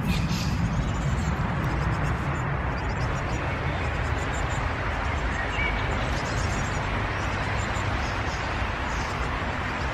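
A steady rush of background noise, with faint high-pitched chirps of begging great tit nestlings breaking through a few times.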